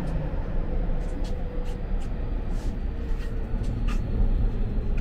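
Inside a commuter train car running on the line: a steady low rumble of the train's running, with a faint steady whine and a few light clicks over it.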